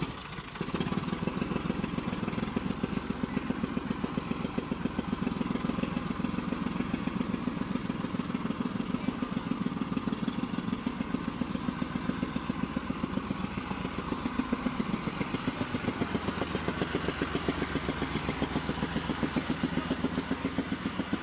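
Freshly overhauled Massey Ferguson 385 tractor's three-cylinder diesel engine running steadily with an even beat of firing pulses. It picks up in loudness about a second in.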